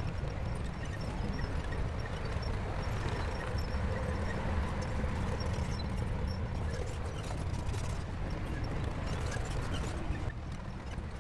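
Shantui bulldozer's diesel engine running steadily under work, with scattered clanks from the tracks and blade. The sound eases slightly near the end.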